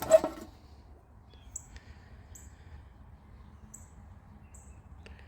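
A brief clack at the very start. Then quiet, with short, high, falling chirps from a small bird about once a second.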